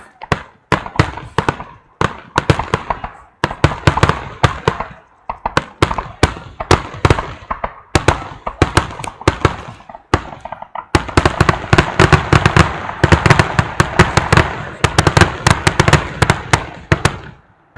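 Fireworks going off in rapid volleys of sharp cracks and bangs, many per second, with brief pauses between volleys; the second half is a nearly continuous crackling barrage.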